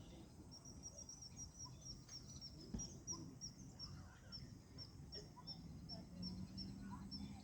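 A small bird chirping: a long run of short, high chirps, several a second. There is one brief knock about three seconds in.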